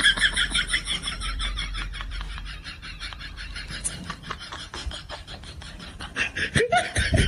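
A pet making a fast, rhythmic, scratchy sound, about five strokes a second, with a short, louder pitched call near the end.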